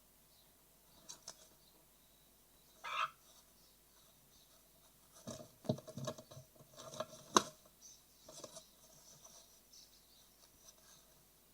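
Great tit nestlings moving about inside a wooden nest box: scattered scratches and taps of claws on wood, with one brief scrape about three seconds in and a busier flurry of scratching and clicks from about five to eight seconds in.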